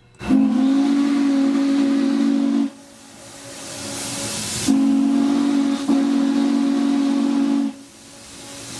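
Norfolk & Western 611's chime steam whistle blowing two long blasts of a few seconds each, a steady multi-note chord, sounded as the 'ghost whistle' meant to echo back like another train answering. A hiss swells up in the gap between the blasts.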